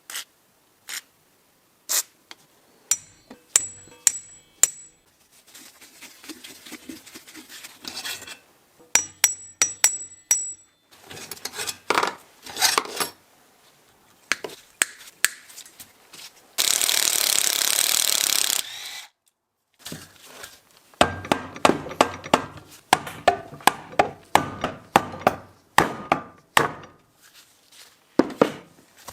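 Hand work on the metal parts of a bench drill press during disassembly: irregular taps and knocks, some ringing clinks of small steel parts, and scraping. A steady hiss lasts about two seconds a little past the middle.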